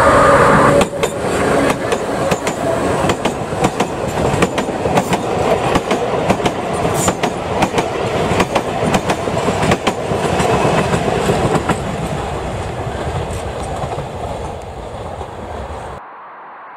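A Sóller railway narrow-gauge electric train, a vintage motor car hauling wooden carriages, passes close by. It is loudest as the motor car goes by in the first second, then the wheels clack rapidly and irregularly over the rail joints as the carriages roll past, fading away before cutting off near the end.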